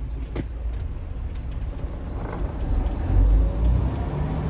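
Semi-truck's diesel engine running, heard from inside the cab, its low rumble growing louder about three seconds in, with a brief click near the start.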